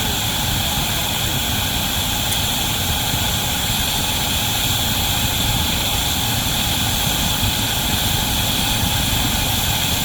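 Steam locomotive working a heavy train: a steady roar with deep rumble and a strong, even hiss, no separate exhaust beats standing out.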